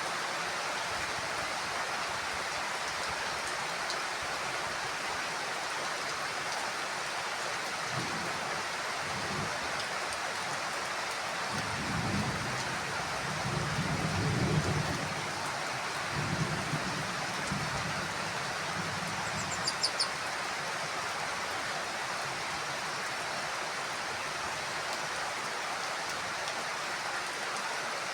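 Heavy rain falling steadily on a house roof, with a low rumble of thunder rolling in through the middle, swelling and fading away. Two short sharp ticks sound just after the thunder dies down.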